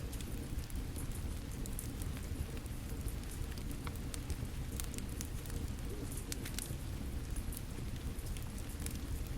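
Steady rain falling together with a crackling fire, with sharp pops and snaps scattered all through.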